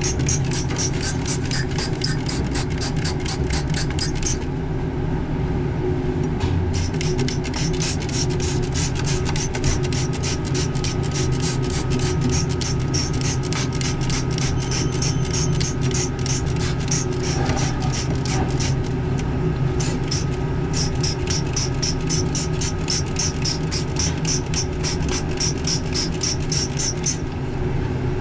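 Refrigeration machinery running with a steady hum, with a fast, regular rasping tick, about six a second, over it that stops briefly a few times.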